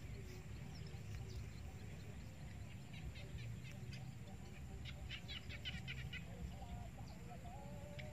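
Birds chirping: a quick run of sharp, high chirps about five seconds in, roughly eight a second, and another run starting near the end, over a low steady rumble.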